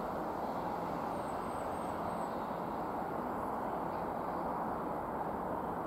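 Steady, even rumble of a distant Class 165 diesel multiple unit approaching along the line, holding a constant level with no sharp sounds.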